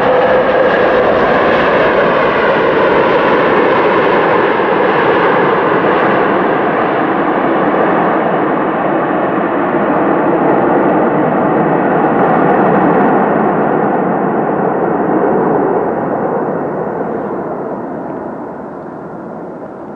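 Airliner's engines running loud as it passes close by, a broad roar with a faint whine, dulling and fading away over the last few seconds.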